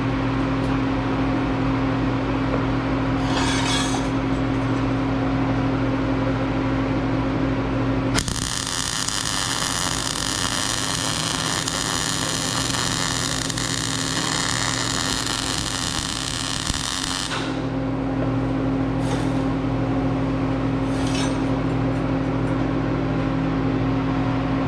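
Steady electrical hum, broken about eight seconds in by some nine seconds of a harsh, high-pitched hissing whine from a metalworking tool working the steel, after which the hum carries on.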